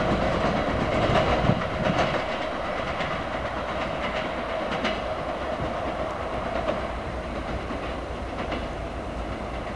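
Freight train of flat wagons, hauled by a ChME3 shunting diesel, rolling past: wheels clicking over the rail joints, the sound slowly fading as the train moves away.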